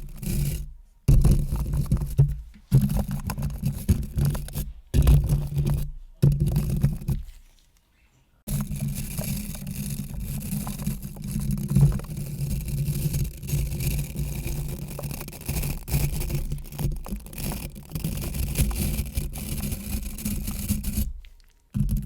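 Close-miked brushing and scratching, an ASMR trigger, coming in short passes that cut off suddenly, then running on without a break from about eight seconds in until it stops shortly before the end.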